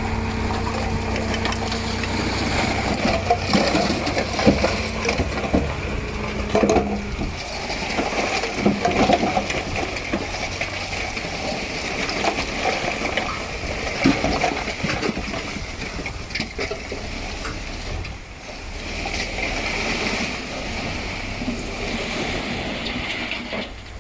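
Heavy earthmoving machinery at work. A diesel engine runs steadily for the first several seconds, then gives way to irregular clanks and knocks over a rushing noise.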